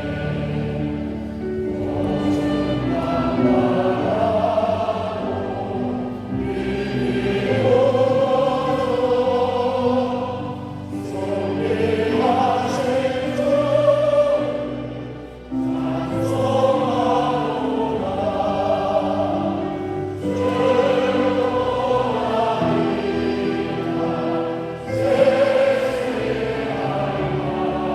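Church congregation standing and singing a hymn together, in sung phrases a few seconds long with a short break about halfway through.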